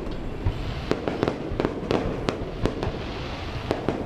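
Aerial fireworks display: a rapid, irregular series of sharp bangs and pops, several a second, over a continuous low rumble of distant bursts.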